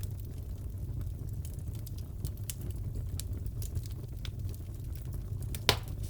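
Wood fire crackling in a fireplace: scattered small pops and snaps over a low steady rumble, with one louder pop near the end.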